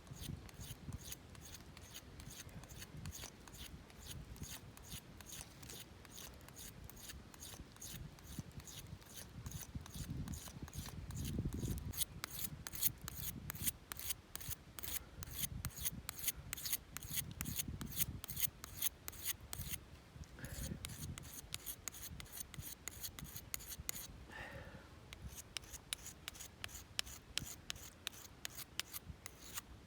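Rhythmic rasping strokes, about four a second, pausing briefly twice.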